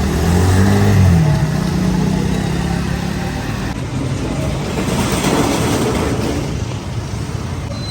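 A motor vehicle engine running with a steady hum for the first few seconds, then road-traffic noise that swells and fades as a vehicle passes about five seconds in.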